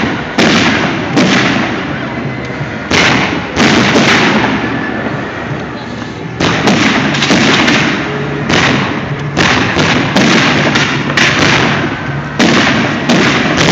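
Firework display: a run of loud aerial firework bangs in quick succession, each sharp onset trailing off. The bangs thin out around the middle, then a denser salvo follows.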